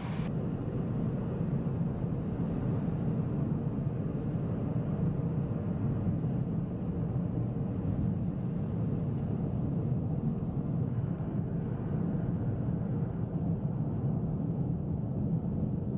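Steady low rumble of a car driving on the road: engine and tyre drone with no change in pace.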